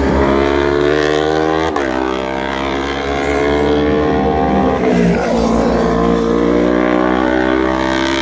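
Superbike racing motorcycle engine accelerating hard, its pitch climbing steadily through the gears, with two quick upshifts: one about two seconds in and another about five seconds in.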